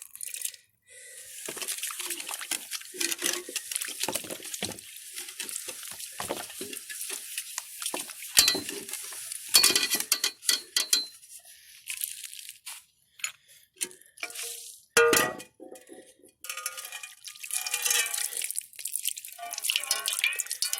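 Dishes, pots and utensils clinking and clattering as they are handled, in irregular knocks with short metallic rings.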